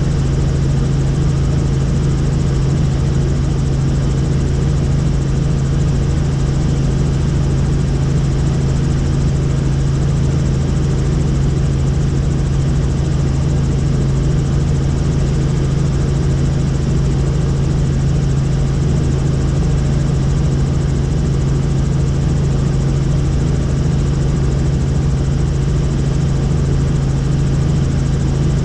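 Helicopter in steady flight: continuous engine and rotor noise, a strong, unchanging low hum under a steady whooshing wash of noise.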